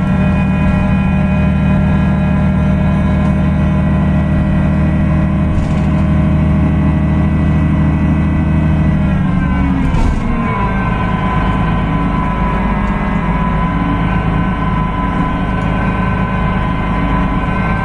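Cummins ISB 6.7 diesel engine of a Solaris Urbino 18 hybrid bus running steadily. About halfway through, its pitch slides down with a click and settles at a lower, steady speed, with a thin whine over it.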